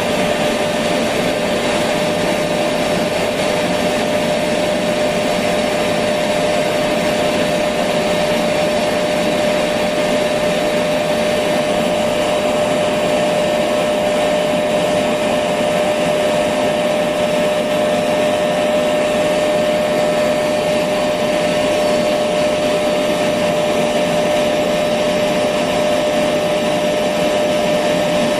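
Electric vacuum cleaner running continuously at a constant speed: a steady motor hum with a high whine and a rush of air.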